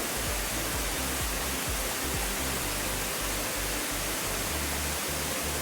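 Steady rush of a waterfall, an even roar of falling water, with background music under it.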